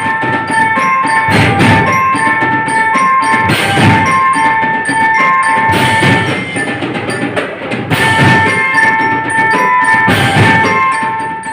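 School drum band playing: a bell-lyre (marching glockenspiel) carries a repeating melody of clear ringing notes over the drums, with loud crashes every two seconds or so.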